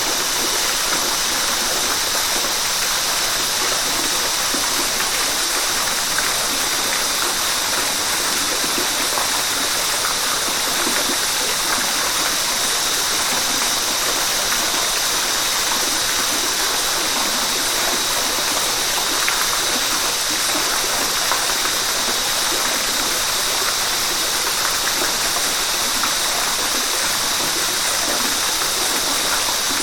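River water rushing steadily over rocks, an even unbroken flow.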